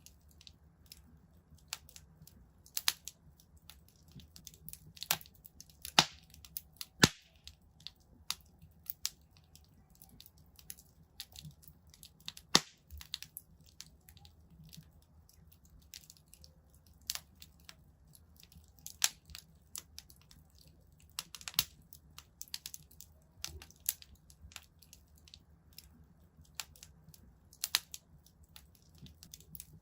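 Wood fire crackling in a fireplace: irregular sharp snaps and pops, a few of them loud, over a faint low rumble of the flames.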